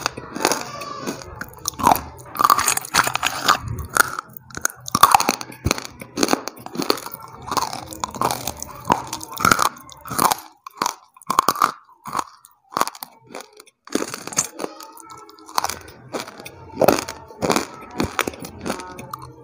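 A person biting and chewing crunchy food close to the microphone: a run of sharp, uneven crunches about one or two a second, with a brief lull about three-quarters of the way through.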